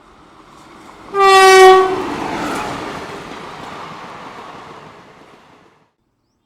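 An Indian Railways locomotive horn sounds one blast of about a second, a little over a second in. Train running noise follows and gradually fades, then cuts off suddenly.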